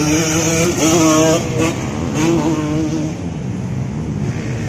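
Motocross bike engines revving, the pitch rising and falling a few times before settling lower after about three seconds.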